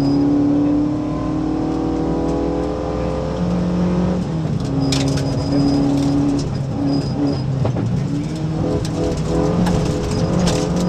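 Mitsubishi Colt Lancer A73's Saturn 4G32 1882cc four-cylinder engine, heard from inside the cabin, pulling hard under acceleration on a dirt road. Its note climbs steadily, breaks at a gear change about four seconds in, and a few sharp knocks from the road or loose stones come about five seconds in.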